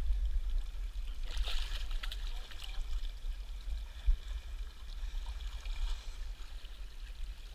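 Flowing river water with a steady low rumble underneath. A brief splashy rush comes about a second and a half in, and a single knock about four seconds in.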